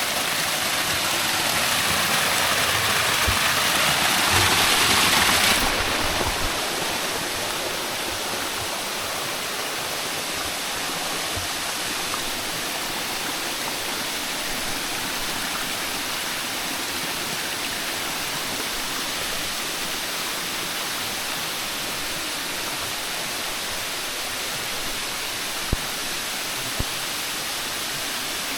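Rushing water, a steady hiss. It is louder and brighter for the first five seconds or so, then drops suddenly to a softer, even rush. Two sharp clicks near the end.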